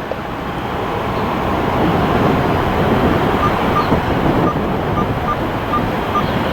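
Jet airliner engine noise: a steady rush that grows gradually louder.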